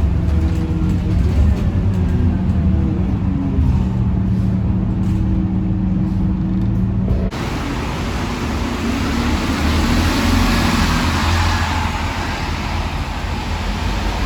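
Heard from on board the Scania K230UB city bus: its diesel engine hums steadily at a constant pitch. About halfway through, the sound changes abruptly to a broad hiss of road noise, with the engine fainter underneath.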